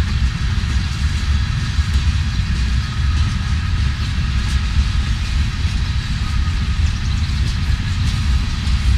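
Freight train rolling past on the BNSF main line: a steady, loud low rumble of wheels on rail, with faint high ringing tones and light clicks over it.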